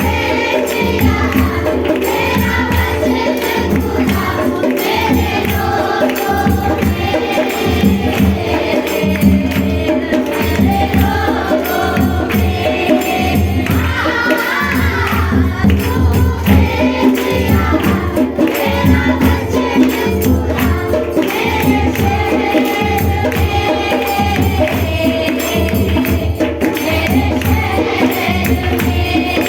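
A group singing a devotional worship song together, with tambourine shaking and a steady rhythmic beat underneath.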